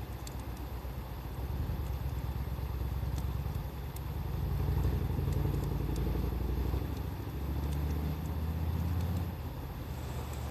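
Low engine rumble of a motor vehicle that swells and then cuts off near the end, with faint wood-fire crackles in the background.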